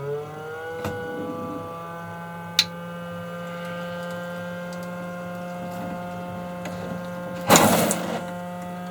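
Motorhome water pump starting up and running with a steady motor whine, its pitch rising briefly as it spins up, while it builds pressure in lines that have not yet delivered water. A brief hissing burst comes near the end.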